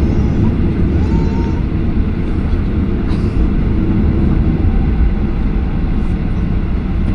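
Steady low rumble of cabin noise inside a Boeing 737-800: engine and air-conditioning noise heard from a passenger seat, even and unbroken.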